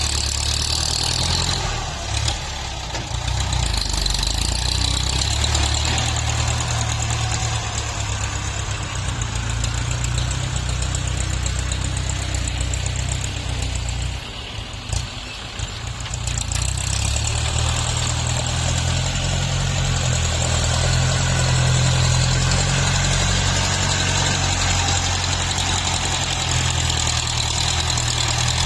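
Tractor engines running steadily while grading soil, the engine note easing off briefly about halfway and then picking up again under load.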